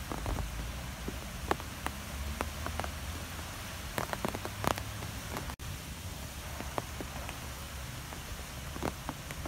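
Steady rain with scattered sharp drop ticks over a low, steady background noise. A split-second dropout cuts the sound a little past halfway.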